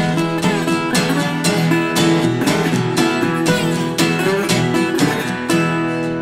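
Instrumental break in a country-style children's song: acoustic guitar strumming to a steady beat.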